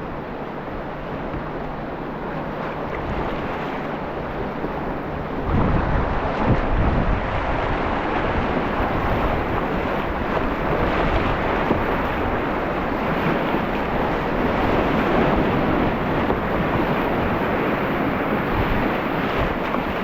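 Rushing whitewater of river rapids around a kayak, getting louder about five or six seconds in, with wind buffeting the microphone.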